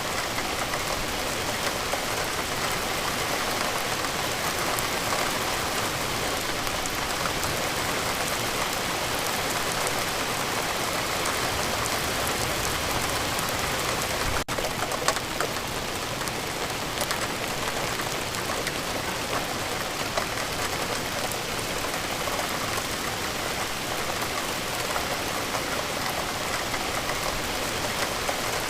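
Steady rain falling in a dense, even patter, with a split-second dropout about halfway through.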